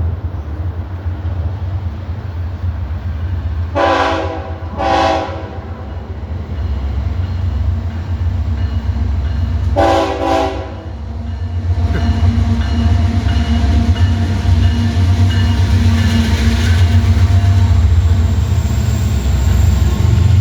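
Diesel freight locomotive sounding its air horn: two short blasts about four seconds in and another about ten seconds in, over the low rumble of the approaching train, which grows louder from about twelve seconds on.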